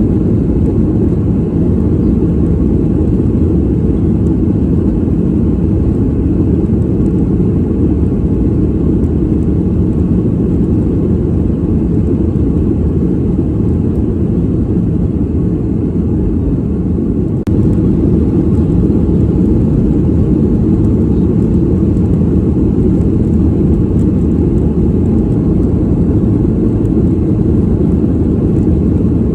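Steady airliner cabin noise in flight: an even, low rumble of engines and rushing air, with a slight step up in level about two-thirds of the way through.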